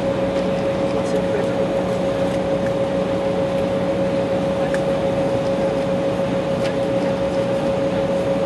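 Cabin noise inside a jet airliner: the engines and airflow make a steady hum with a constant whine running through it.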